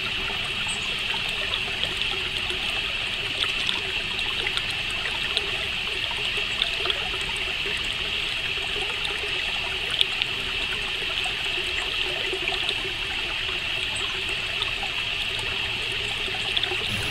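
Steady nature ambience: an even, high hiss with a strong band near the top, at a constant level, with scattered faint ticks.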